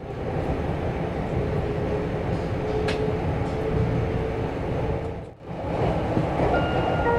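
Steady running noise inside a JNR 485-series express train car, a low rumble of wheels on rail and the train underway. It breaks off briefly about five seconds in.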